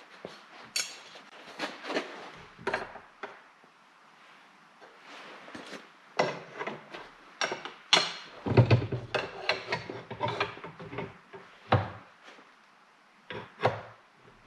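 Irregular knocks, clanks and clatter of tools and metal pieces being picked up, set down and knocked together, busiest in the middle.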